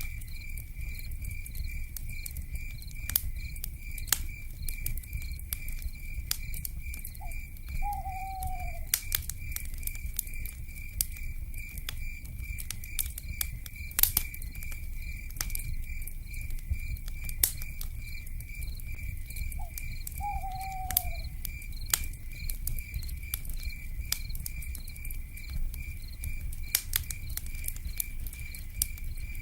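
Campfire crackling and popping over a low rumble, with a night insect trilling in a steady, evenly pulsing rhythm. An owl gives a short falling hoot twice, about a quarter of the way in and again past the middle.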